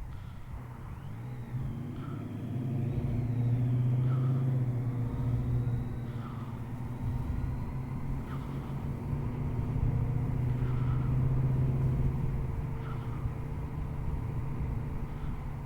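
Yamaha MT-09's three-cylinder engine running while riding, picked up by the on-board camera with low wind rumble. The engine note swells about four seconds in and again around eleven seconds, easing between.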